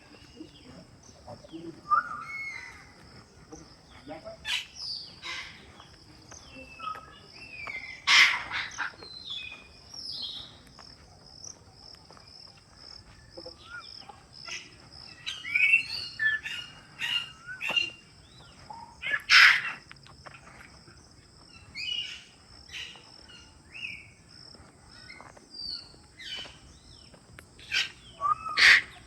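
Park birds chirping and calling in many short, scattered phrases over a steady, high-pitched insect buzz. A few sharp, loud clicks stand out, about a third of the way in, two-thirds of the way in and near the end.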